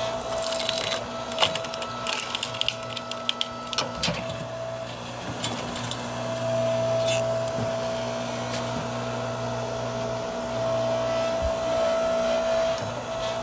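Wood-splitting machine running with a steady motor hum, while a log crackles and snaps as it is split, mostly in the first few seconds and once more near the middle.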